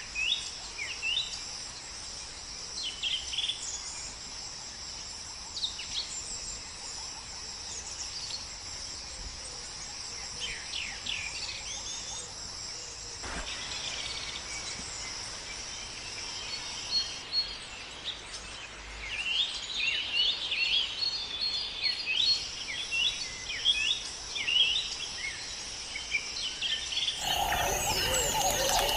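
Steady high-pitched insect chorus, typical of crickets, with scattered short bird chirps over it. Near the end the sound cuts to louder, busier bird chirping.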